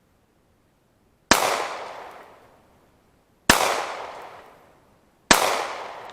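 Three 9 mm pistol shots from a Taurus 709 Slim, fired slowly about two seconds apart, each ringing out for about a second and a half.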